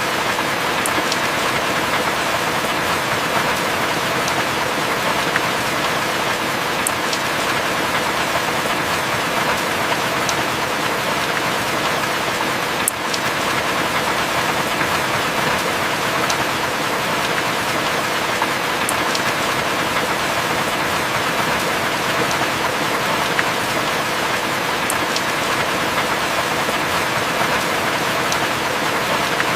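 Heavy rain falling steadily as a dense, even hiss, with scattered sharp drop ticks and no thunder.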